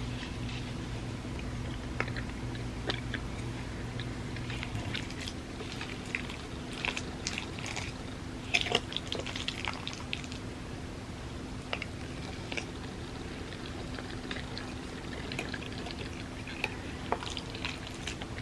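Wet eating sounds of creamy rice pudding: soft chewing with scattered mouth clicks and smacks, busiest around the middle and again near the end, over a steady low hum.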